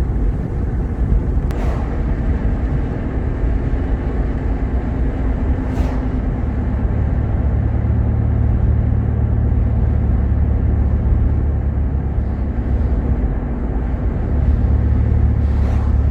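Steady low road-and-engine rumble of a Jeep Grand Cherokee driving, heard from inside the cabin. The rumble swells twice, and three faint, sharp ticks are heard, spread out.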